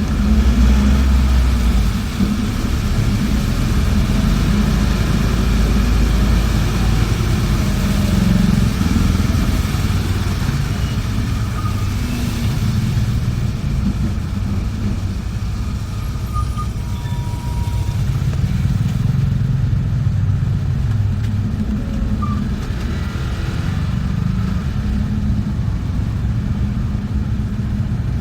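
Engine and road noise of a moving bus heard from inside the cabin: a steady low rumble that swells and eases slightly.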